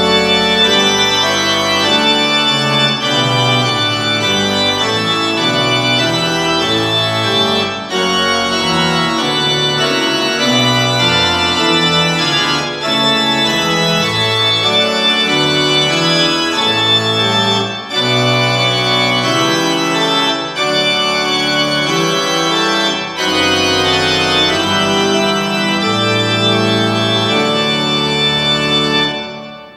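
Organ music: sustained chords moving about once a second, in phrases with short breaks between them, fading out near the end.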